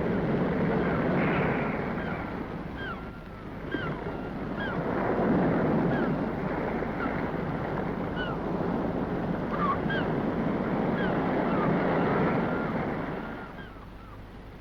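Shallow sea water washing and surging in swells, with many short, high bird calls scattered through it. The rushing fades away near the end.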